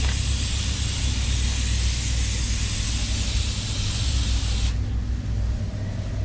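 Paint spray gun hissing in one long pass as colour is sprayed, cutting off suddenly about four and a half seconds in when the trigger is released. A steady low rumble runs underneath.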